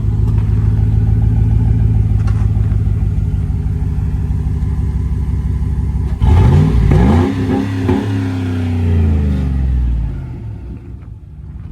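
2012 Chevrolet Tahoe's V8 idling through an exhaust with the muffler and resonator cut out. It is revved once about six seconds in, held briefly, and drops back to idle.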